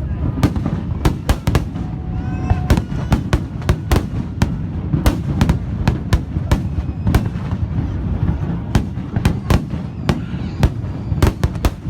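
Fireworks display: sharp bangs and crackling reports in quick, irregular succession, several a second, over a steady low rumble.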